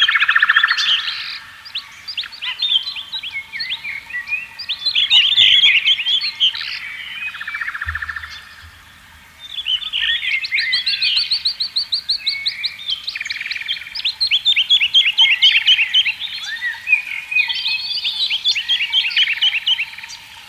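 Several songbirds singing over one another: overlapping chirps and fast trilled phrases, with a short lull about eight seconds in.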